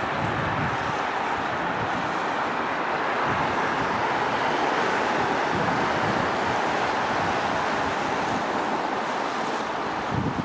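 A train running in the station: a steady rumbling hiss that swells in the middle, with a thin high whine coming in near the end.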